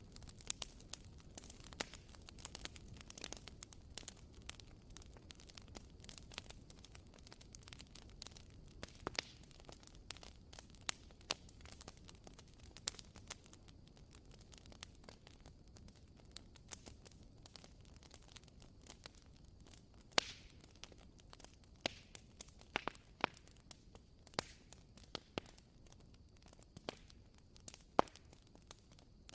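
Wooden wick of a WoodWick candle crackling as it burns: irregular soft pops and snaps over a faint hiss, like a small campfire.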